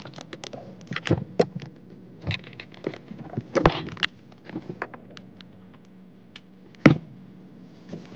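Irregular knocks, clicks and scrapes, like things being handled and moved about, over a faint steady low hum; the sharpest knock comes near the end.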